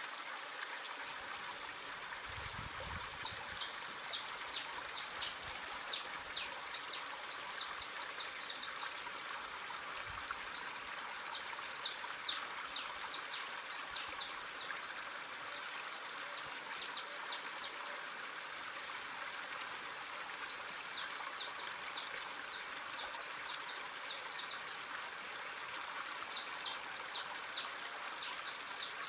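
Small birds chirping in quick runs of short, high notes over the steady rush of a stream.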